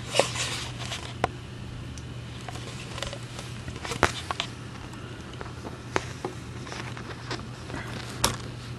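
Light handling noise of a small die-cast scale model loader backhoe being moved by hand, with a few scattered sharp clicks and taps of its parts, the one near the end loudest, over a steady low hum.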